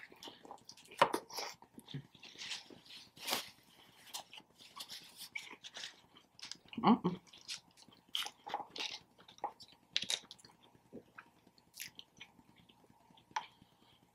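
Close-up chewing and biting of a sub sandwich: irregular crunches and wet mouth clicks from eating, with one louder, lower sound about seven seconds in.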